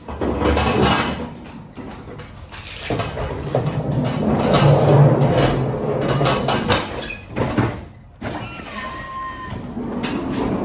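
Manual pallet jack rolling and rattling under a loaded pallet, with metal clatter and knocks, a short pause, and a brief squeak near the end.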